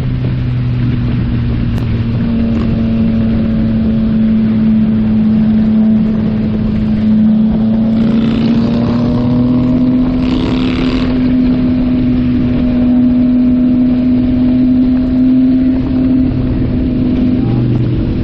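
Yamaha MT-09 SP three-cylinder engine through a Yoshimura AT2 full exhaust, cruising at a steady throttle, its note slowly climbing in pitch, with wind noise on the microphone throughout.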